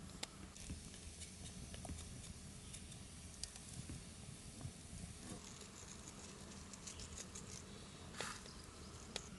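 Faint, irregular small clicks and crackles, with a sharper click about eight seconds in, over a steady low hum.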